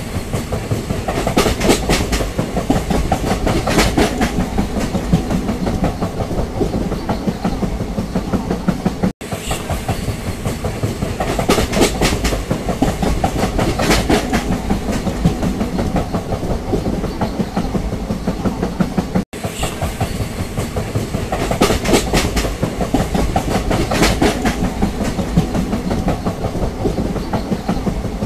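Train wheels clattering over rail joints over a steady low rumble. The same stretch of sound repeats, cutting out for an instant twice.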